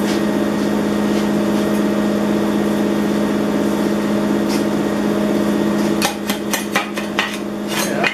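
A steady electrical hum from the stick welder. About six seconds in, a hammer starts striking quickly and repeatedly on the freshly welded steel, chipping the slag off the bead.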